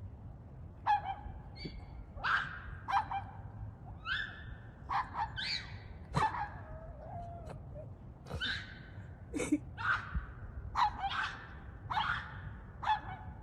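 A dog screaming instead of barking: a run of about fifteen short, high-pitched, yelping screams, roughly one a second with a brief pause midway, aimed at neighbouring dogs.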